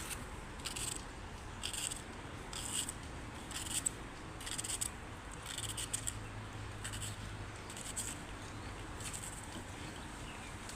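Repeated short scraping or rubbing strokes, roughly one a second and somewhat irregular, over a steady background hiss.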